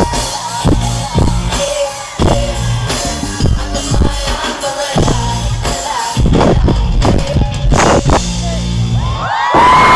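Live band music at a pop-rock concert: drum kit strikes over bass and guitar, with a long held note sliding up near the end.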